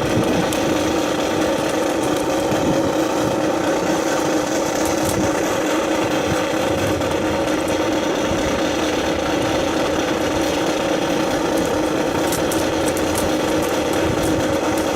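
A steady, loud engine drone holding a low and a higher note, with a few faint sharp clicks.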